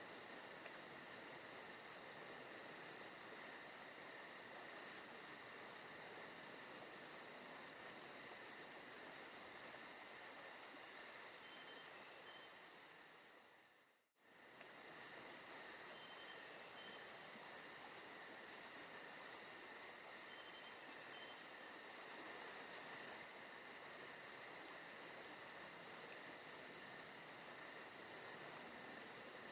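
Forest ambience recording of crickets chirping steadily at low volume. About halfway through, the track fades out to nothing and fades back in, as at a loop restarting.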